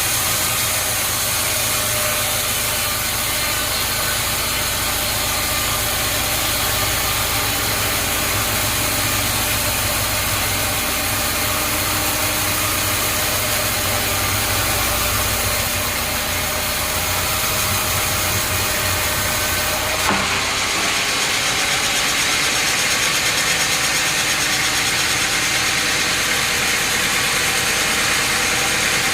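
Sawmill machinery running steadily, an engine drone under a broad hiss. About twenty seconds in the sound changes abruptly and the low rumble drops away.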